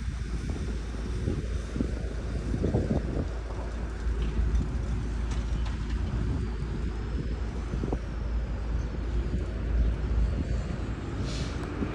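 Steady low rumble of an airliner's jet engines, mixed with wind buffeting the microphone, with a faint high whine sliding down in pitch in the middle.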